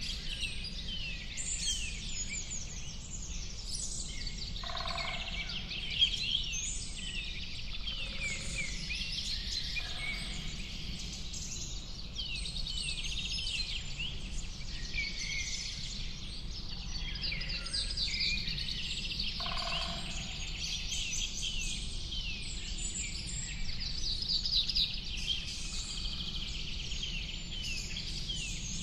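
A dense chorus of many songbirds chirping and trilling over each other, over a steady low rumble. A lower-pitched call stands out twice, about 5 and 20 seconds in.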